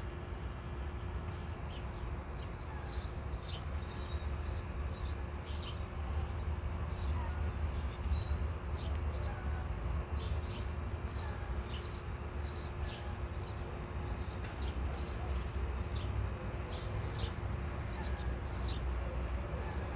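Small birds chirping: many short, high, falling notes repeated throughout, over a constant low rumble and a faint steady hum.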